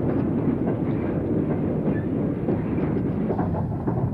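Steam train running, a steady rumble with a rapid, irregular clatter.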